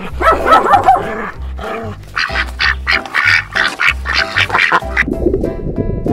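Domestic ducks quacking, a quick run of short calls over background music with a steady low beat. A brief dog call comes in the first second.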